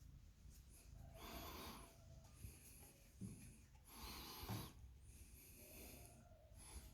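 Cat purring close to the microphone, a faint low rumble throughout, with several breathy, rustling bursts.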